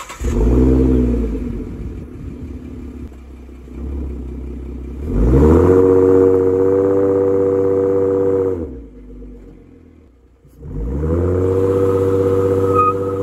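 Ford Mustang's 3.7-litre V6 revved with the car standing still: a quick blip, then revs held high for about three seconds, dropping back, and held high again near the end. It is a burnout attempt that fails to break the rear tyres loose, with no tyre squeal.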